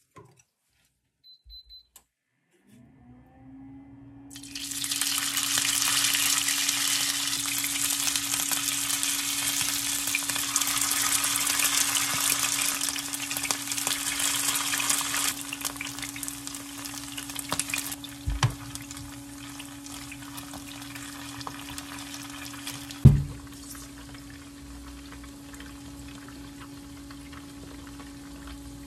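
Noodle-wrapped shrimp frying in hot oil in a grill pan: a dense crackling sizzle starts a few seconds in, loud at first, then settles quieter. A short beep comes just before it, a steady low hum runs underneath, and two knocks fall in the second half, the second of them the loudest sound.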